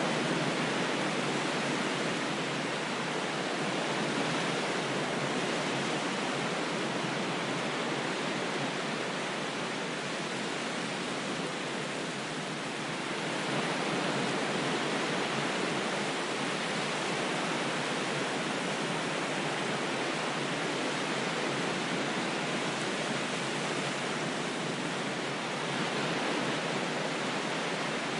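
Ocean waves washing in a steady hiss of surf, easing off briefly about halfway through and swelling again.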